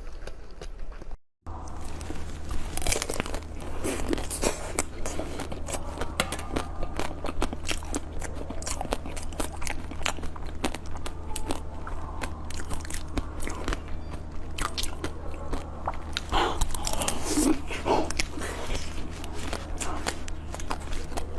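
Close-miked eating sounds: a dense run of crunchy bites and chewing with many quick wet clicks, as of frozen chocolates or frozen fruit being bitten. A brief dropout to silence comes just over a second in.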